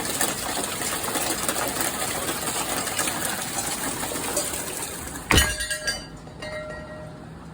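Heavy rain pouring down in a dense, rattling patter. About five seconds in there is one loud thump, after which the rain is much quieter.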